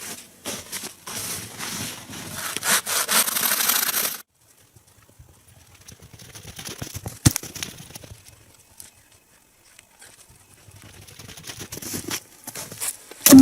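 A hand saw cutting through a log in repeated strokes, getting louder over about four seconds and then stopping abruptly. Afterwards come scattered quieter knocks and rustles, a sharp knock, and a loud thud near the end.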